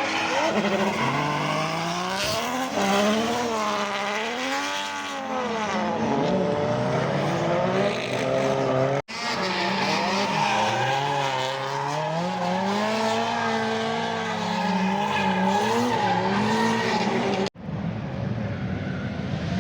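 Drift cars' engines revving up and down as the throttle is worked through a slide, over a steady hiss of skidding tyres. The sound breaks off abruptly twice, about nine and seventeen seconds in, where the footage is cut.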